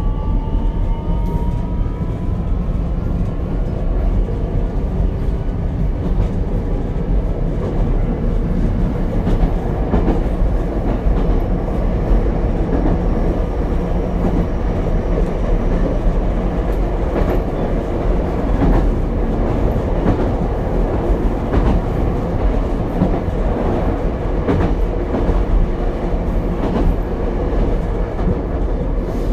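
Ichibata Electric Railway 7000-series railcar 7001 running, heard from inside the car: a motor whine rising in pitch fades out in the first couple of seconds as the car picks up speed, then a steady rumble of wheels on rail with a clickety-clack of rail joints.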